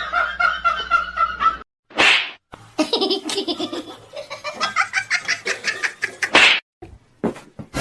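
Human laughter in quick repeated bursts, broken by abrupt cuts between clips, with a short hissing burst about two seconds in and another just before the end.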